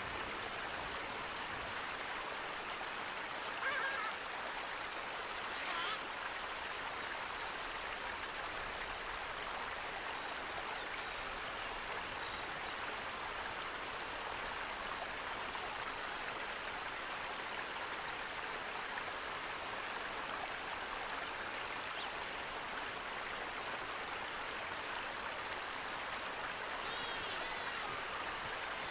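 Steady rush of flowing water, even and unbroken, with a few short bird chirps about four and six seconds in and again near the end.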